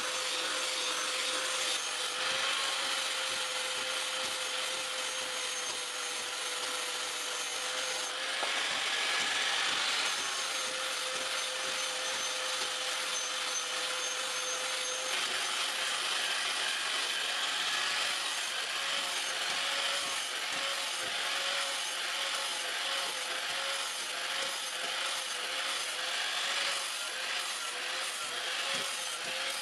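A power grinder abrading the steel of a knife: a steady motor whine under a continuous rough, hissing grind, the whine wavering slightly in pitch in the second half as the load changes.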